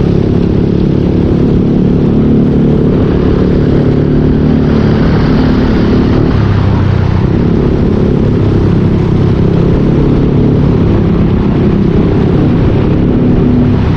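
Yamaha Aerox 155 scooter's single-cylinder engine running under way through a full Yoshimura aftermarket exhaust. The engine note shifts lower about six seconds in.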